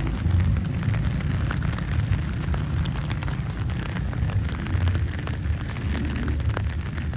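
Wind buffeting the microphone in the rain, a steady, wavering rumble with a faint patter of rain over it.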